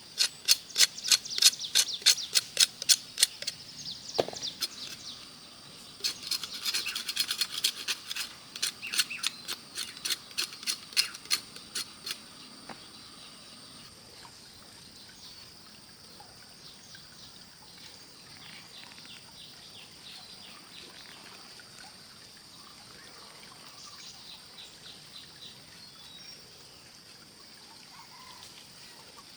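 A bird calling in two runs of rapid, sharp, high chirps, about five a second, the second run stopping about halfway through, over a faint steady high drone of insects.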